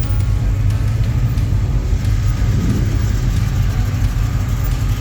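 Car engine running with a steady low rumble, as a classic car moves slowly out in the exit traffic.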